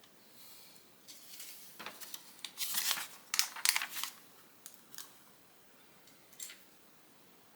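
Hands handling Lego pieces and their plastic parts bag: about three seconds of busy rustling and clatter, then a few light clicks.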